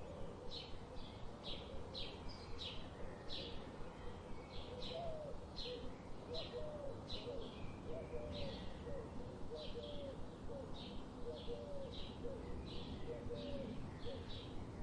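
Birdsong ambience: a bird repeats short high chirps about twice a second over a steady low background noise. From about a third of the way in, a second, lower call repeats alongside the chirps.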